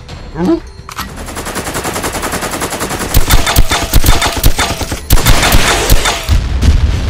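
Automatic gunfire sound effect: a rapid, even stream of shots starting about a second in, growing louder, then a short break and a second loud burst near the end.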